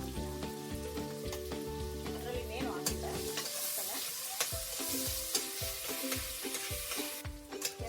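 Food frying in hot oil in a cooking pot, sizzling and being stirred, with the spoon knocking against the pot. The sizzle swells loudly about halfway through, then drops away near the end. Steady background music plays in the first half.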